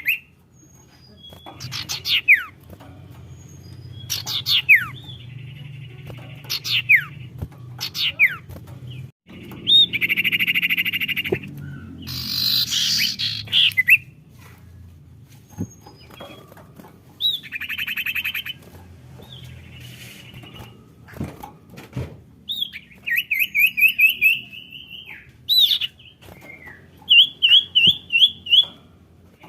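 Common iora (sirtu/cipoh) calling: sharp downward-sweeping whistles repeated every second or two, harsh buzzy chattering calls, and a quick run of short repeated notes near the end. A faint low hum runs underneath.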